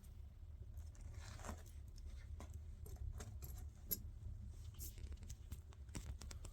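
Irregular small clicks, taps and rustles of objects being handled, with one sharper knock about four seconds in, over a low steady rumble.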